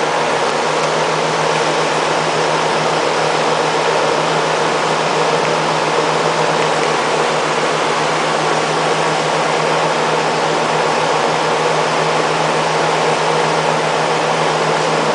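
A microwave oven running together with a room air conditioner: a steady hum under an even whooshing noise, with no break or change.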